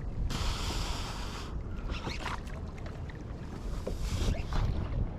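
Water splashing and sloshing at a kayak's side over the low rumble of wind on the microphone, with a loud hissing splash about a second long near the start, a softer one later and a few small knocks.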